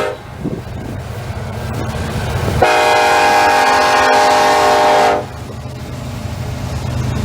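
A CN freight diesel locomotive sounds its multi-chime air horn in one long blast of about two and a half seconds, starting under three seconds in. Under the horn is the steady low rumble of the train, growing louder as it approaches.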